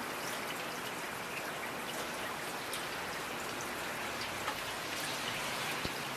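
Steady rain, a continuous hiss with individual drops ticking here and there on a surface.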